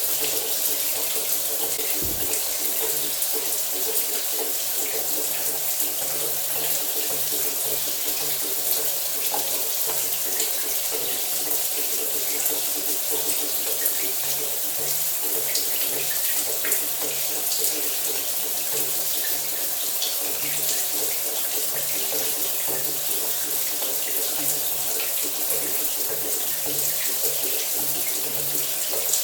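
Shower running steadily, water spraying and splashing with an even, continuous hiss and a low hum underneath. One short dull thump about two seconds in.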